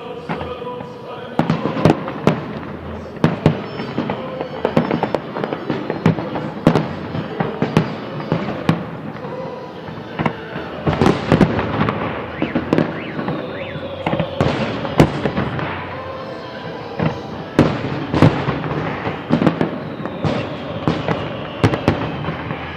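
Fireworks salute bursting in a dense, irregular series of sharp bangs, several a second at its busiest.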